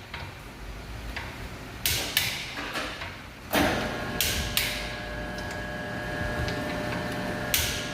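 Sharp mechanical clicks, mostly in pairs a third of a second apart, then a steady hum with several even tones that starts about three and a half seconds in.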